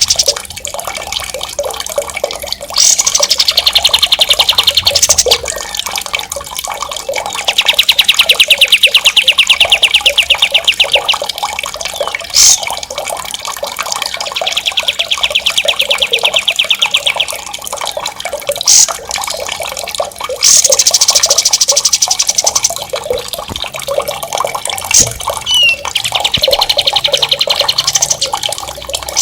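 Songbird singing long, very fast rolling trills (ngerol), five rolls of about three to four seconds each, some dropping in pitch at the start, with a few short sharp whistled notes between them, over the steady sound of running water.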